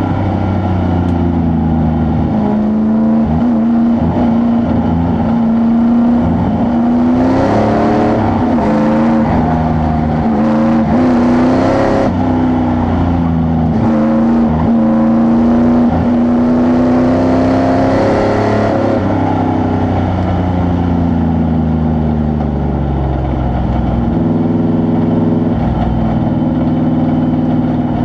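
A truck engine running under load, its pitch rising and falling again and again as it revs up and eases off.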